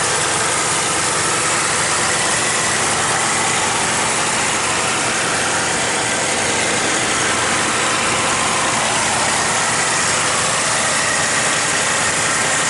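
A 1991 Pontiac Firebird Formula's 5.0-litre V8 idling steadily.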